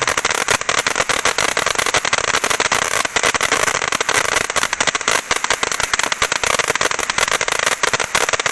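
World Class "Just Trippin'" ground fountain firework spewing with a dense, rapid crackle: many sharp pops a second over a steady hiss.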